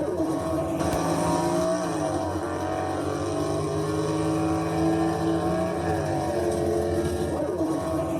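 Motor vehicle engine running with a steady drone whose pitch drifts down and back up a few times.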